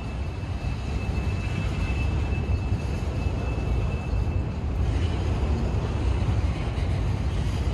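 Freight train cars, mostly centerbeam flatcars, rolling slowly past on the track: a steady low rumble of wheels on rail. A faint thin high squeal sounds for the first couple of seconds.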